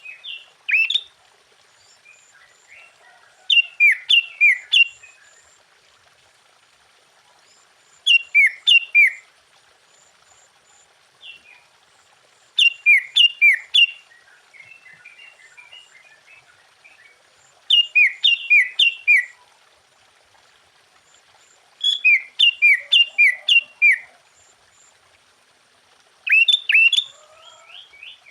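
Sooty-headed bulbul singing: short loud phrases of three to six quick falling whistled notes, repeated about every four to five seconds, with softer chirps in between.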